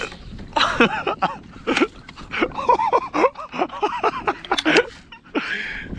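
A man's voice talking and exclaiming indistinctly in short bursts.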